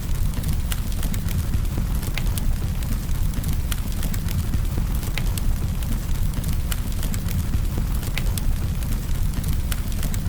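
Campfire burning with a steady low rumble of flames and frequent irregular sharp crackles and pops from the burning wood.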